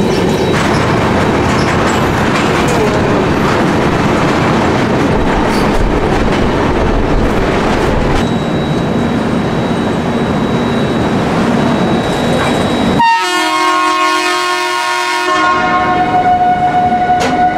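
Duronto Express passenger train running, a steady rumble with rail clatter, then a train horn sounds about thirteen seconds in and holds steady for several seconds.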